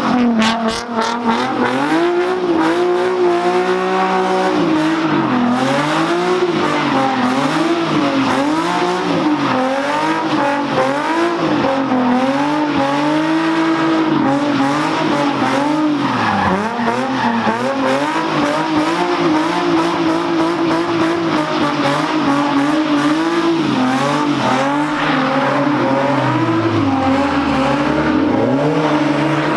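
Cars drifting: an engine revving up and down over and over, about once a second, over steady tyre squeal.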